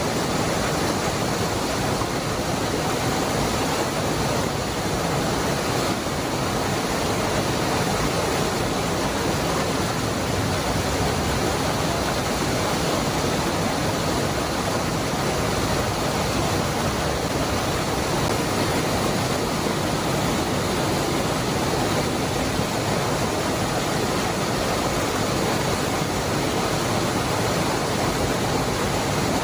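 Steady rushing of a waterfall, the Cascada del Hervidero: an even, unbroken roar of falling water without distinct splashes.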